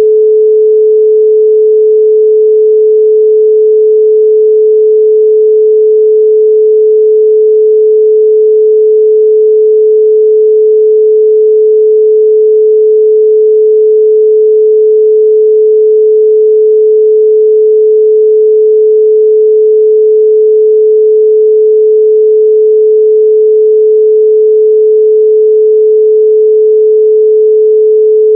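A steady 432 Hz pure sine tone, held unchanging and loud.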